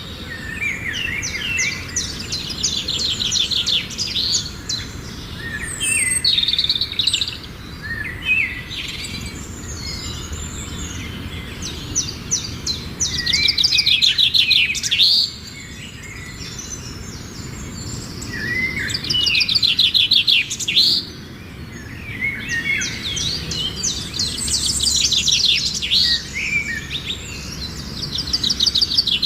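Birds singing and chirping, with bursts of fast trilled phrases every few seconds among shorter sliding chirps.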